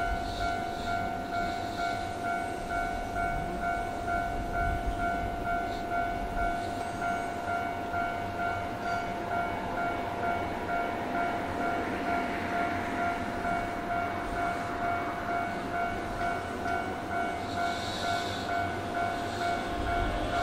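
Keihan electric railway sounds at a station platform: steady high tones pulsing evenly about one and a half times a second over a low hum. The low rumble of a train builds near the end.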